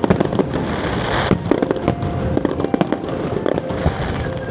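Fireworks display: rapid sharp bangs and crackles in quick succession, with a hiss that stops about a second in.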